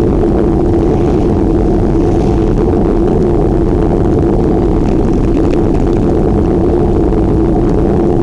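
Steady, loud wind and road rush on a microphone carried on a moving bicycle, unbroken throughout.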